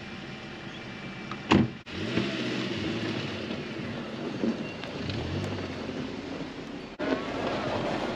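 Car engine running as the vehicle drives out through snow without getting stuck. A sharp knock sounds about a second and a half in.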